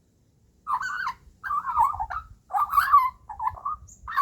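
Juvenile Australian magpie calling: a string of four or five short, wavering, squawky warbles, starting just under a second in.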